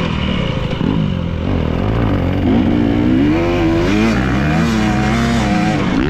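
Motocross dirt bike engine under riding load, its pitch rising and falling several times as the throttle opens and closes.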